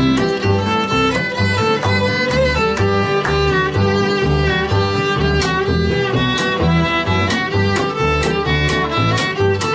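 Acoustic bluegrass band playing an instrumental break: a fiddle carries the melody in long held notes over strummed guitar and a steady low beat of about two pulses a second.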